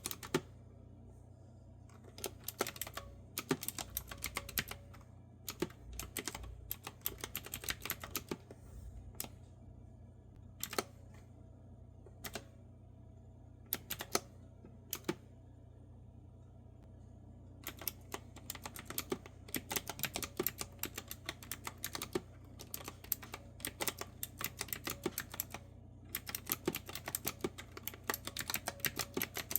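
Typing on a clicky retro-style keyboard with round keys: quick runs of keystrokes broken by short pauses. Around the middle the typing thins to a few isolated clicks for several seconds, then steady typing resumes. A faint low hum runs underneath.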